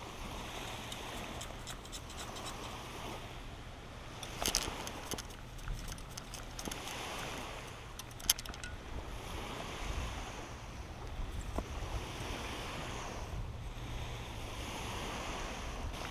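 Water washing around a kayak, swelling every two to three seconds, with a couple of sharp knocks.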